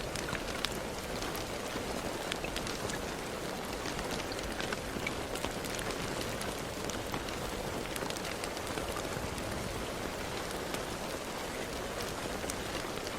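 Steady rain falling, a constant hiss with many separate drops ticking sharply here and there.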